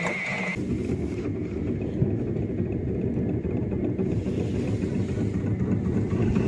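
Small wooden boat under way, pushed by a propeller driven by an electric hand drill: a steady low rumble of motor and water. A thin high whine in the first half second cuts off abruptly.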